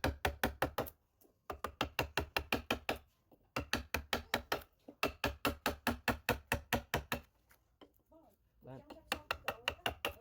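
Hand carving chisel driven into wood by rapid mallet taps, about seven a second, in runs of one to two seconds with short pauses between.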